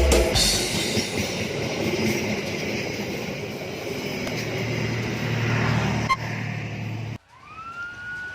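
Train running with a steady rumble and rail noise that cuts off suddenly near the end. Right after, a single tone glides up, holds and slides back down.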